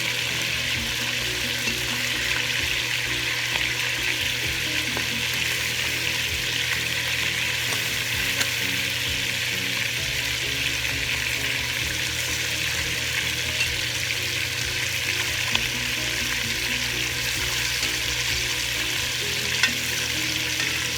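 Chicken leg pieces frying in hot cooking oil: a steady sizzle with small crackles, and a couple of sharper pops near the end.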